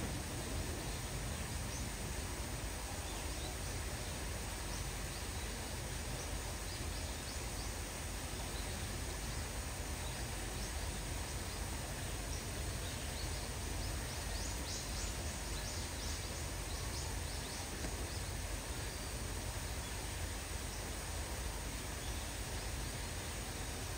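Steady outdoor hiss of light rain with a low background rumble, and a scatter of faint high ticks in the middle.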